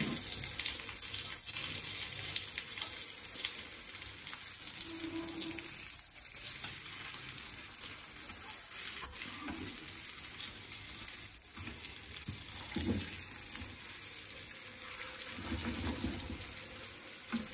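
Potato and minced-meat cutlets shallow-frying in oil in an iron pan, a steady sizzle. A spatula turning them gives a few light clicks against the pan.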